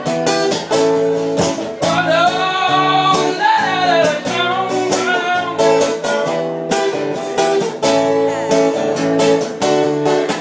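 Guitar strummed in a steady rhythm, an instrumental passage between verses of a song.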